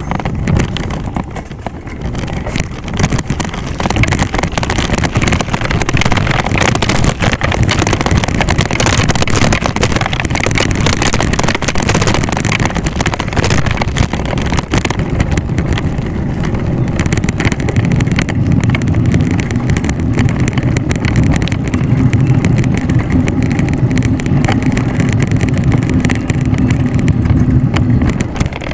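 Wind rushing over the microphone of a camera on a moving bicycle: a steady, loud rumble, heaviest low down, that grows stronger over the last ten seconds.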